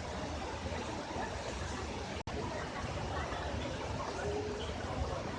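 Steady rushing noise of falling water from a waterfall, with a deep rumble, cut off for an instant a little over two seconds in.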